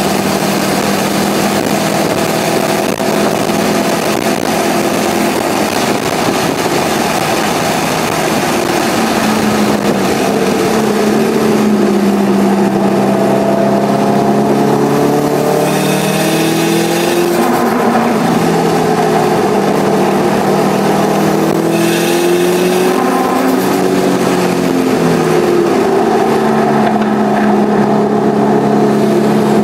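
Subaru Impreza WRX STI's turbocharged EJ25 flat-four heard from inside the cabin on track, its pitch rising and falling as the driver accelerates and lifts between corners. Two short bursts of hiss break in around the middle.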